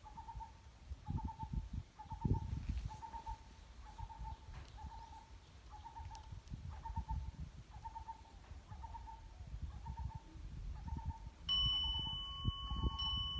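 A bird, likely an owl, calls one short hooting note over and over, about three notes every two seconds, with gusty low rumble under it. Near the end a steady high tone joins in.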